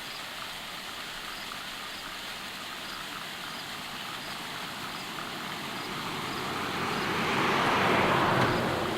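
Steady rush of a waterfall, with a car passing on the road: its noise swells over the last few seconds and fades again at the very end.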